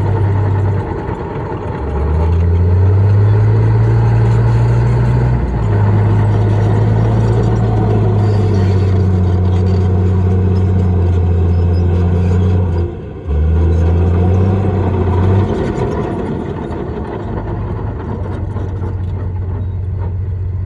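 Heavy diesel engine of earthmoving machinery working under load. Its note rises about two seconds in and holds high, cuts out for a moment about two-thirds of the way through, then eases to a lower, steadier run near the end.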